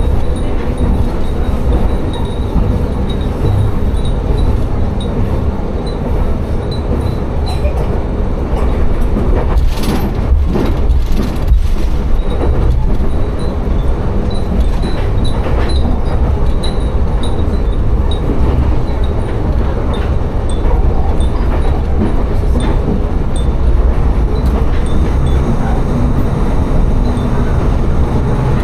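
Tsugaru Railway diesel railcar running along the line, with a steady low drone of engine and wheels and a stretch of clattering over the track about ten to twelve seconds in. Light high tinkling of wind chimes hung inside the car is scattered over the noise.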